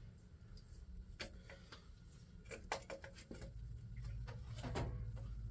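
Scattered light clicks and taps of a large adjustable wrench being fitted to a bolt on an engine block, with a low rumble building near the end.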